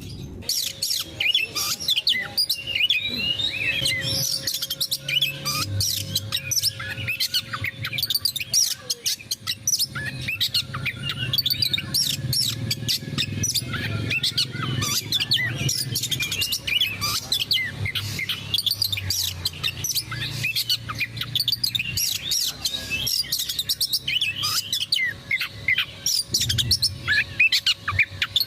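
Oriental magpie-robin (kacer) singing a fast, continuous, varied song of whistles and chirps, over a steady low hum.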